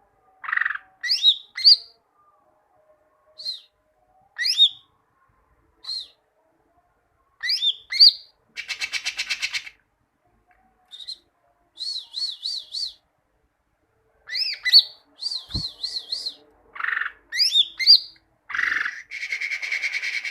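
Greater green leafbird (cucak ijo) singing: a varied run of short chirps and sweeping whistled phrases separated by pauses, with bursts of fast repeated notes and two dense buzzing trills, one about nine seconds in and one near the end.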